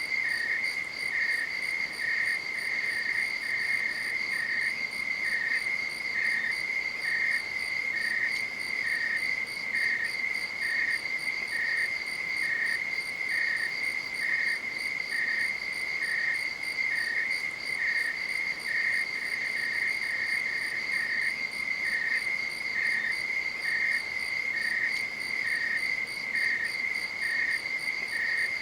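Night insects chirring: one keeps up a steady, high, unbroken trill while a second, slightly lower chirp repeats evenly about once a second.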